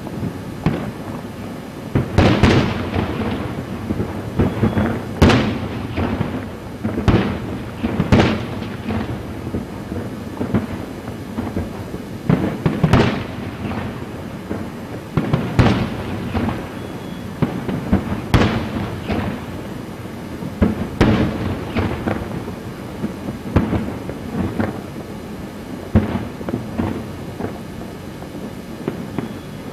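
Aerial firework shells bursting one after another: a long series of booms at irregular intervals, some overlapping, with a low rumble filling the gaps between them.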